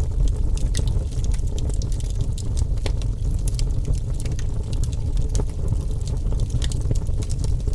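Wood fire crackling, with frequent sharp pops and snaps over a steady low rumble of the burning flames.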